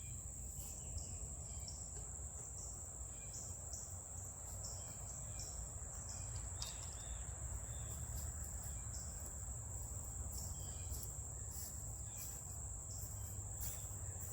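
A steady, high, shrill chorus of crickets with scattered short chirps above a faint low rumble.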